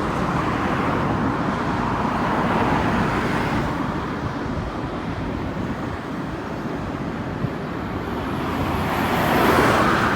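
Steady outdoor traffic noise, swelling as a vehicle passes near the end.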